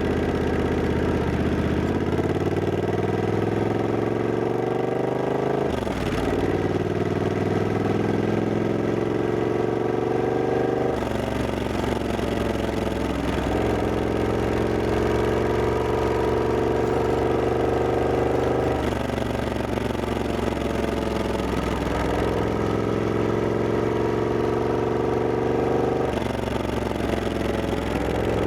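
Triumph Scrambler 1200X parallel-twin engine under way, heard from the rider's seat. Its pitch climbs as it pulls, then drops and climbs again at gear changes, several times over.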